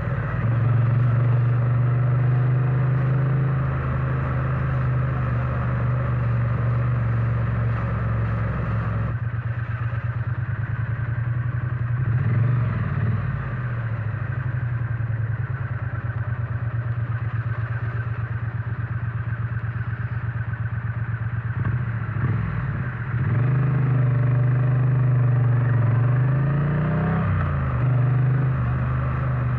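Triumph Bonneville T100's parallel-twin engine and exhaust running under way, heard from the rider's seat. The note eases off about nine seconds in, rises briefly a few seconds later, then dips and climbs again as the throttle opens near the end.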